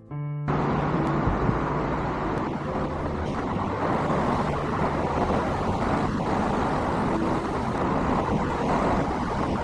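Steady, loud outdoor rushing noise with a low rumble, starting about half a second in as a piano piece cuts off.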